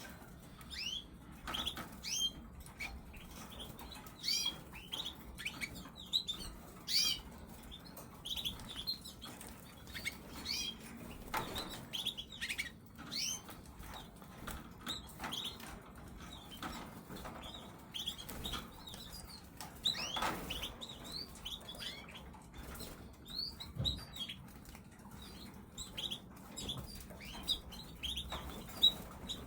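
Caged canaries giving many short, falling chirp calls, mixed with wing flutters and a few sharp knocks as they hop and flap about.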